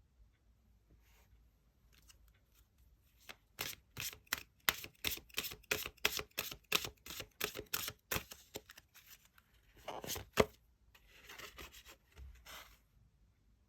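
Tarot cards being shuffled by hand: a quick run of card slaps, about four or five a second, then a couple of sharper taps and cards sliding against each other near the end.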